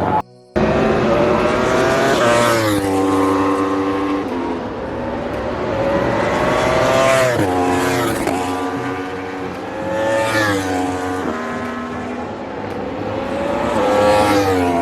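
Racing motorcycle engines at high revs, climbing in pitch and dropping sharply at each upshift, over and over as bikes accelerate through the gears. The sound cuts out for a moment just after the start.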